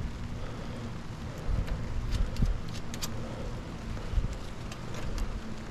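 A low steady rumble with a few light clicks and knocks, as a conduit antenna mast is twisted and worked loose in its mounts.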